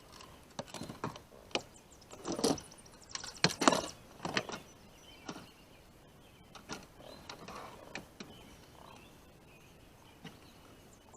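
Irregular knocks, clicks and scrapes of handling while a caught catfish is measured for length, busiest in the first half and thinning out toward the end.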